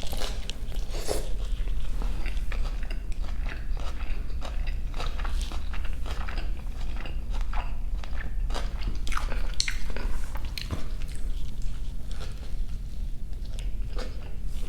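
Close-miked eating of a beef jianbing, a Chinese egg-and-flour crepe wrap: bites and chewing with irregular crisp crunches.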